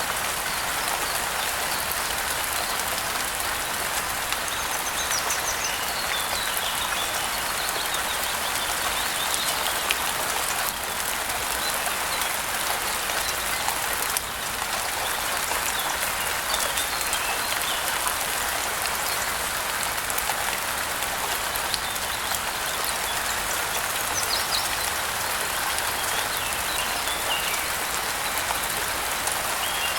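Steady rain falling, a dense patter of drops, with small birds chirping now and then over it.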